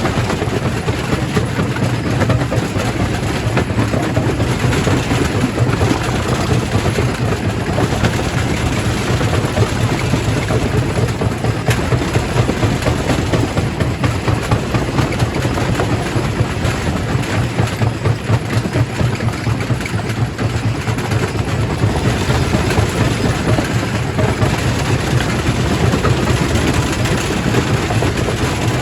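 Primary rock crusher running under load: a steady low machine hum under continuous crunching and clattering of stone being broken.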